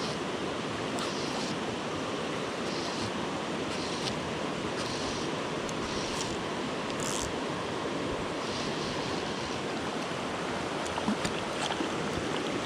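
A small mountain stream rushing steadily over rocks, with brief higher hisses every second or so and a few sharp knocks near the end.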